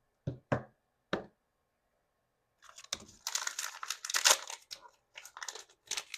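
Three sharp clicks or taps in the first second, then a small plastic wrapper from a Mini Brands toy being crinkled and torn open, loudest about four seconds in, with more crinkles near the end.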